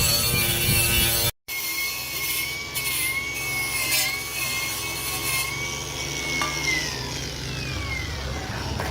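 A power tool's motor running with a steady, slightly wavering whine, then winding down with a falling pitch near the end. A different mechanical noise is cut off abruptly about a second in, just before it.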